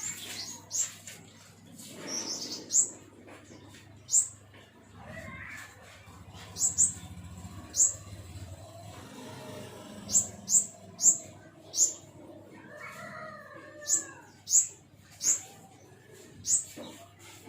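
Pentis kumbang, a small Indonesian songbird, giving sharp, very high, clipped call notes, about fifteen of them at irregular intervals, the 'shots' that keepers prize in this bird. A low steady hum runs underneath.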